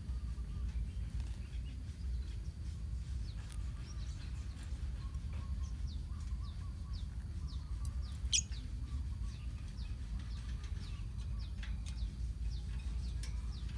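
A colony of lovebirds chirping: many short, high chirps scattered throughout, one louder chirp a little past halfway, over a steady low rumble.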